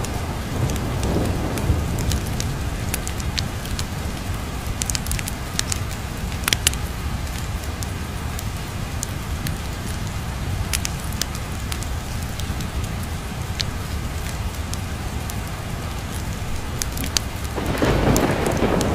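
Steady heavy rain with a low background rumble and scattered sharp ticks, and a roll of thunder swelling up near the end.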